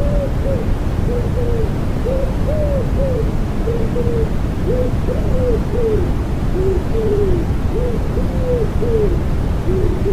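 Common wood pigeon cooing in repeated phrases of several soft, arched notes, over deep, steady white noise.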